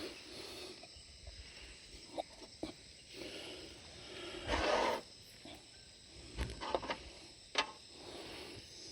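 Scattered light clicks and knocks of handling, with a brief louder rustling burst about halfway through.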